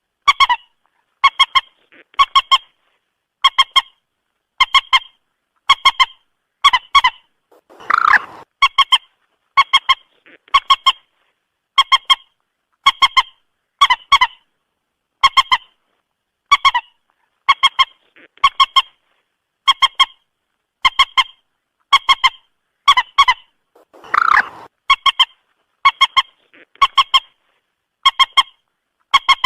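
Common moorhen calling over and over: short, pitched clucking notes in pairs or threes, about once a second. Twice, a louder, harsher call breaks in. The even repetition is that of a looped call recording used to lure moorhens into a trap.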